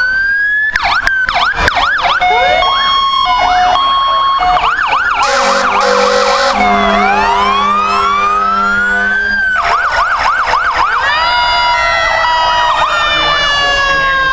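Several fire-truck sirens sounding together: long rising and falling wails, fast yelps and a steady high-low two-tone all overlap. A long, low horn blast comes about five seconds in.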